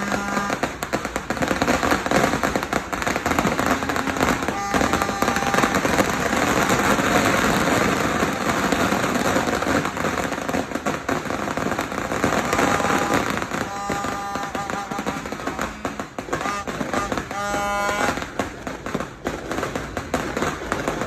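Sinturon ni hudas, a long belt of firecrackers, going off in a rapid, continuous crackle of pops, densest around the middle.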